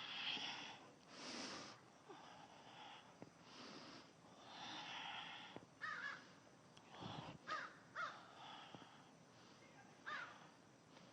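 Slow, deep breaths close to a clip-on lavalier microphone while a yoga pose is held, with a few short calls in the background.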